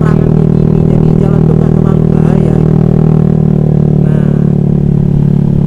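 Honda Vario scooter engine running as a steady drone while riding at an even speed.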